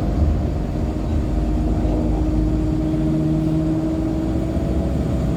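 Interior running noise of a 2014 Nova Bus LFSA articulated hybrid bus under way, its Cummins ISL9 diesel and Allison H50 EP hybrid drive giving a steady low rumble. A held mid-pitched hum runs through most of it, joined by a lower hum a few seconds in.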